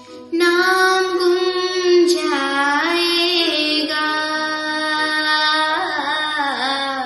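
A woman's voice singing a wordless opening vocal line: long held notes with sliding, ornamented bends in pitch, coming in about a third of a second in.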